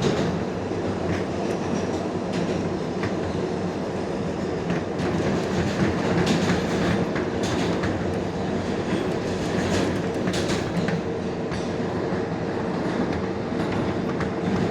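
R142A subway train running between stations, heard from inside the car: a steady rumble of wheels on rail with scattered clicks over rail joints and a steady hum throughout.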